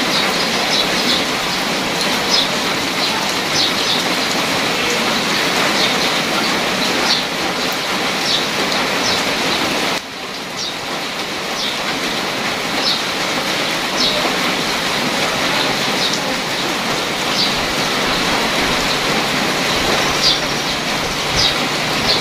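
Steady rain falling into a shallow puddle over gravel and grass: a dense, even hiss of drops with scattered short high ticks. The level dips briefly about halfway through.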